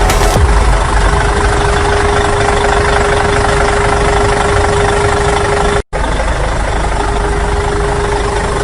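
Steady mechanical running noise with a constant whine, engine-like, cut off for an instant about six seconds in.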